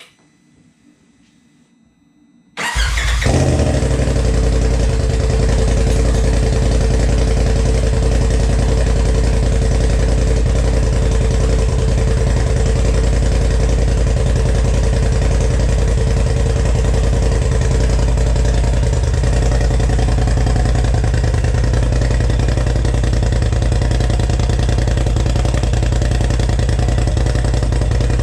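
2020 Polaris RZR Pro XP's turbocharged twin-cylinder engine starting about two and a half seconds in, then idling steadily through a new Gibson aftermarket exhaust.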